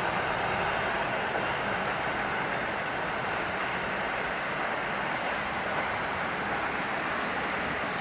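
Passenger train's wheels running on the rails, a steady rumble that fades slowly as the train draws away.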